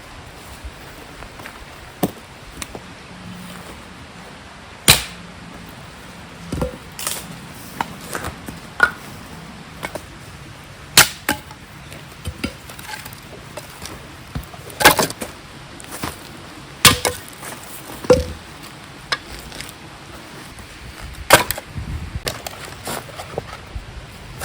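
Hand axe chopping firewood: about eight sharp, irregularly spaced strikes, the loudest about 5, 11, 15 and 17 seconds in, some with a short ringing crack.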